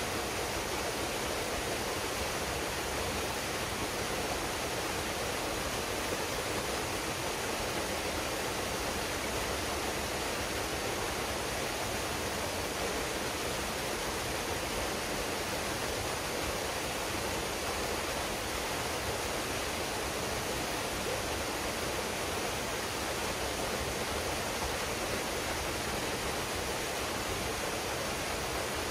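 Waterfall pouring steadily into a pool: a constant, even rush of water.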